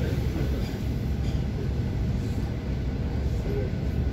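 ED9M electric multiple unit running on the rails, heard from inside the carriage: a steady low rumble of the wheels and running gear.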